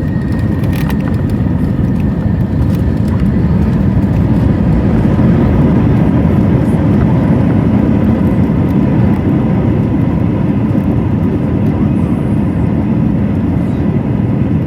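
Airbus A321 cabin noise on the ground just after landing: a steady, loud low rumble of engines and wheels that builds over the first few seconds and then holds.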